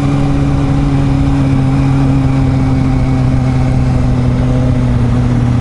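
Motorcycle engine idling steadily, its hum holding an even pitch.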